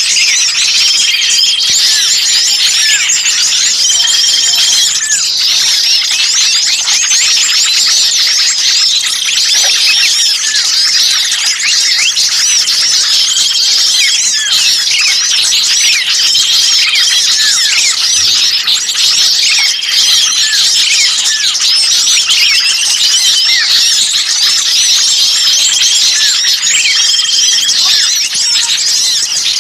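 A dense, noisy chorus of many small songbirds chirping and calling over one another, with a short level trill coming back every few seconds. It is a bird-lure recording meant to draw in small birds.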